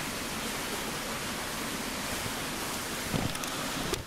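Steady hiss of rain falling, with a brief low thump about three seconds in.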